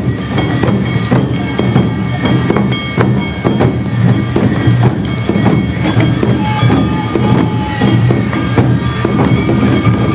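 Live Awa Odori festival music (narimono): drums and small hand gongs beating a steady rhythm under sustained high flute tones.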